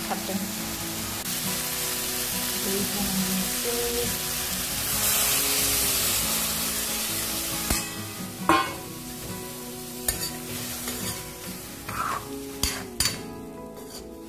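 Pork and greens sizzling in a hot metal wok while a steel spatula stirs them. About five seconds in the sizzle swells, then dies away abruptly as liquid goes into the pan. After that come a few sharp knocks and scrapes of the spatula against the wok.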